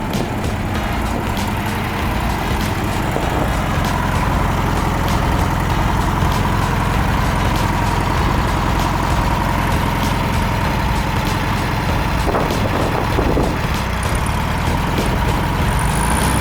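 1968 Volkswagen Beetle's 1500cc air-cooled flat-four engine running steadily, with a broad rushing noise over a low engine drone.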